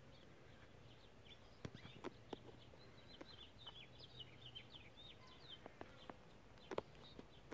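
Small bird chirping faintly: a quick run of short, high chirps through the middle, with a few sharp knocks scattered among them, the loudest near the end.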